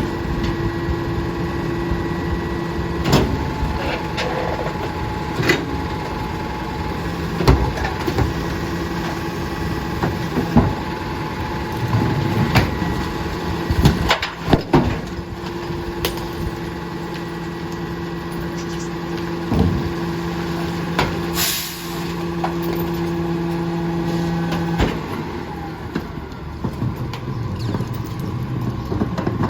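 Heil rear-loader garbage truck on an Autocar ACX chassis at work: a steady mechanical drone with a held hum that drops out and comes back, over repeated clanks and knocks. A short hiss comes about two-thirds of the way through.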